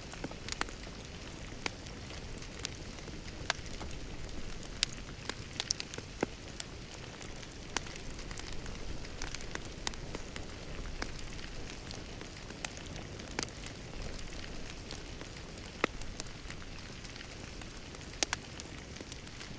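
Wood fire crackling in a fireplace: irregular sharp pops and snaps, a few louder than the rest, over a steady low rush of burning.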